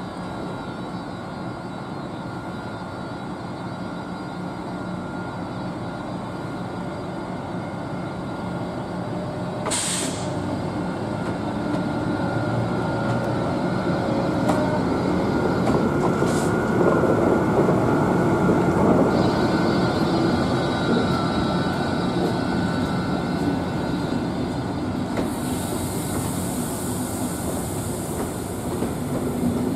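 SNCF BB 26000 electric locomotive hauling a rake of regional coaches past the platform: a steady electric hum over the rumble of wheels on the rails, growing louder and loudest as the locomotive goes by about halfway through. There is a sharp click about ten seconds in, and a high hiss joins near the end as the coaches pass.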